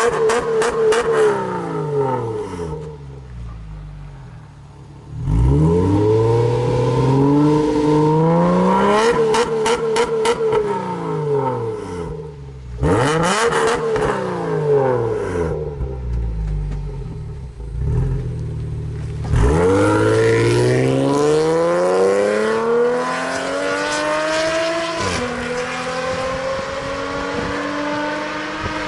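Car engine through an aftermarket exhaust, revved up and let fall several times, its pitch climbing and dropping. Late on, one long climb ends in a sudden drop to a lower, steady note.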